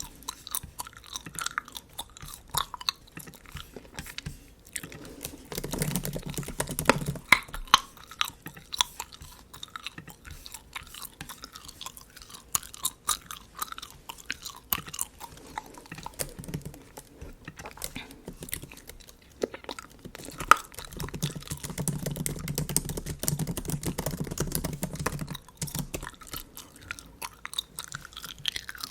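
Close-miked bubble gum chewing: a run of small wet clicks and smacks. A MacBook keyboard is typed on in stretches about six seconds in and again from about two-thirds of the way through.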